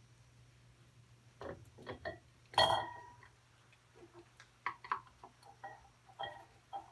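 Irregular light clicks and taps with a brief ring, one louder clink about two and a half seconds in, over a steady low hum.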